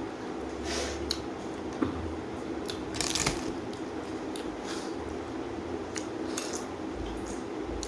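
A person eating: chewing with a few short, crisp crunches, the loudest about three seconds in, over a steady low hum.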